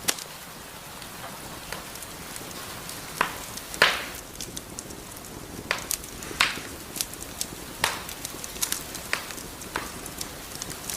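Wood fire burning in a fireplace: a steady soft hiss with irregular sharp crackles and pops, the loudest about four seconds in.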